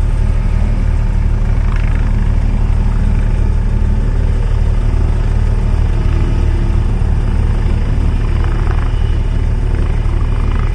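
Helicopter running close by: a loud, steady, fast low beat of the rotor over engine noise.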